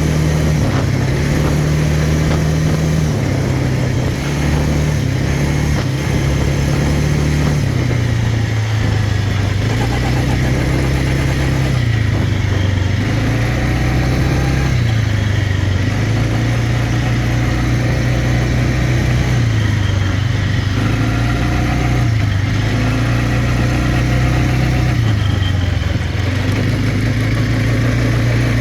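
Quad bike engine running, its note rising and falling repeatedly as the throttle is worked, over steady rushing noise.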